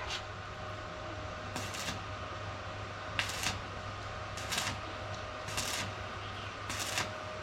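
Metalwork on the edges of a steel boat hull: short hissing strokes about once every second and a quarter, over a steady low hum.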